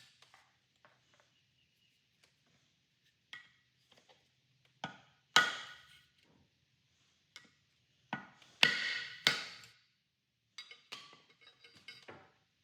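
Hammer tapping a screwdriver to drive an old front crankshaft seal out of its housing: about seven sharp, irregular metallic strikes with a brief ring, the loudest about five and a half and nine seconds in, then lighter clicks near the end.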